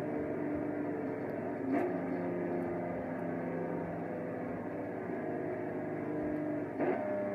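1997 BMW M3's straight-six engine pulling under full-throttle acceleration at high speed, revs climbing slowly. It is broken by two quick upshifts, one about two seconds in and one near the end, each a brief interruption followed by a lower engine pitch.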